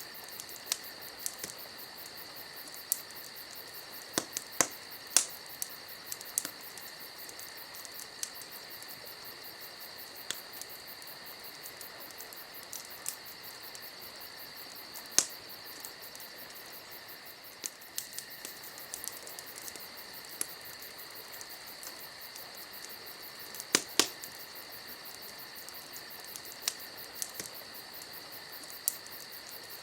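Campfire crackling with irregular sharp pops and snaps, a few louder ones about four, fifteen and twenty-four seconds in, over the steady high chirring of crickets.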